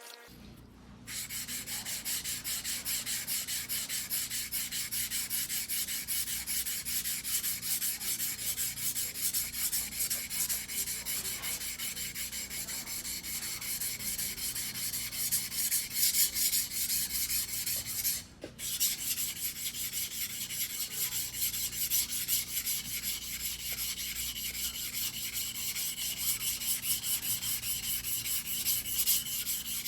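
Single-bevel sashimi knife blade being stroked back and forth on a whetstone in steady, quick strokes. The grinding starts about a second in and pauses briefly two-thirds of the way through.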